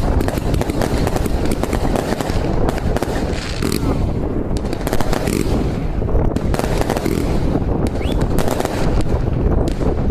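New Year's fireworks and firecrackers going off in a dense, continuous barrage of overlapping bangs and crackles, many a second with no pause. A brief rising whistle sounds about eight seconds in.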